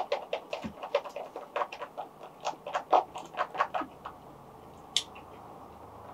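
Close-up chewing and crunching of food, rapid small crunches and mouth clicks several times a second that die away about four seconds in, followed by one sharp click.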